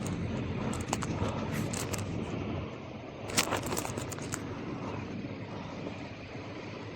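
Gravel bike riding over a wet street: a steady rush of tyre noise, with scattered rattling clicks and a loud cluster of rattles about three and a half seconds in.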